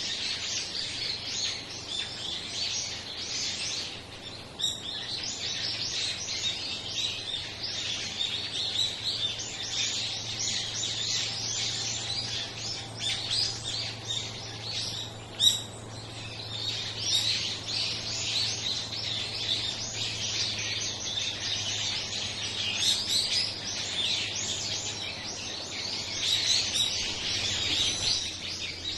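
A flock of small songbirds chirping continuously, with many short calls overlapping. There is one sharp click about halfway through.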